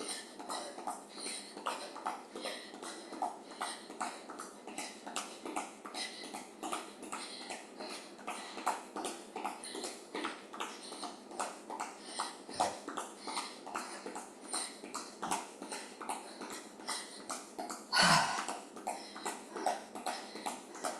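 Rhythmic footfalls of athletic shoes landing on the floor while skipping in place, about two to three landings a second, with one louder sound about eighteen seconds in.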